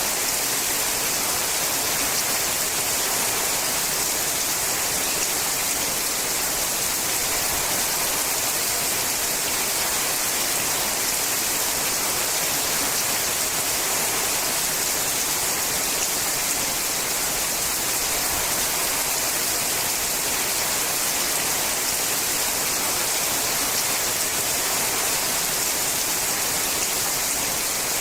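Steady rain falling on a sheet-metal roof, a dense, even hiss of many drops that neither builds nor fades.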